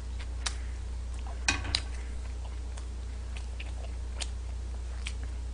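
A person chewing a mouthful of noodles, with a few short, sharp clicks and smacks, two close together about a second and a half in, over a steady low hum.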